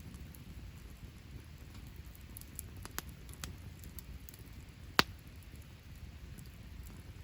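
Wood fire crackling: scattered small pops and ticks, with one sharp, loud pop about five seconds in, over a low steady rumble.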